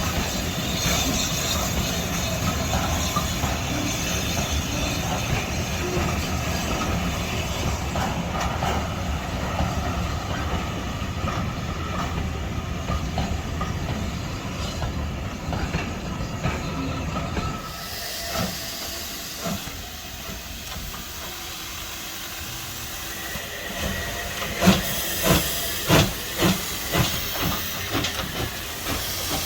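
A steam train runs by with a dense, steady rumble of wheels and carriages. Then, in a quieter scene, a steam locomotive hisses, and near the end its exhaust starts beating in sharp chuffs, about two a second.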